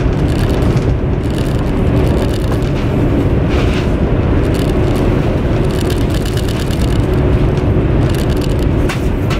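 Steady running rumble of a high-speed train heard from inside the passenger carriage, with a faint steady hum through it.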